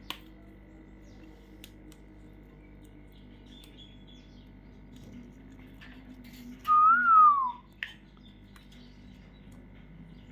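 A parrot gives one loud whistle a little under a second long that rises slightly and then slides down in pitch, with a couple of sharp clicks around it.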